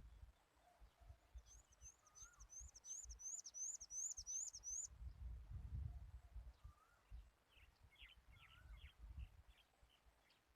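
Faint birdsong: a quick run of about ten high, repeated chirps lasting some three seconds, with softer scattered chirps around it, over a low rumble of wind on the microphone that swells about halfway through.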